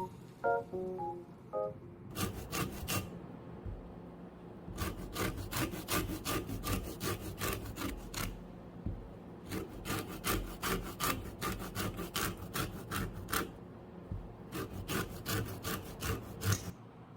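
Lemon being rubbed against a fine grater for zest: quick rasping strokes, about four or five a second, in four runs with short pauses between.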